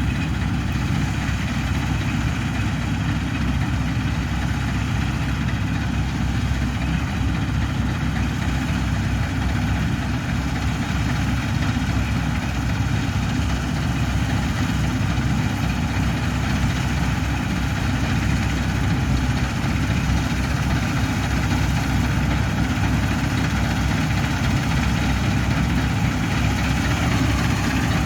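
Combine harvester running steadily at harvest, a constant low engine drone with no change in pitch.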